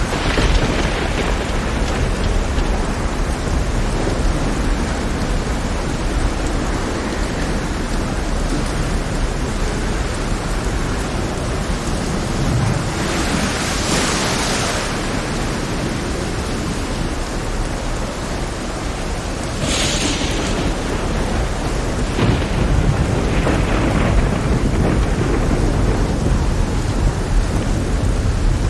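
Heavy rain with rolling thunder over a deep, steady rumble. Louder swells come about halfway through and again a few seconds later.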